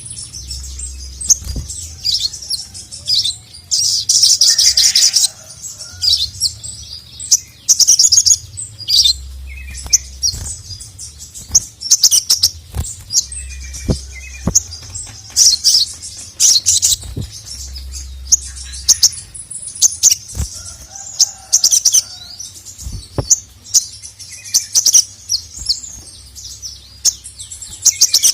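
Sogon (sogok ontong, little spiderhunter) in full song: rapid, sharp, high-pitched chirps given in loud bursts.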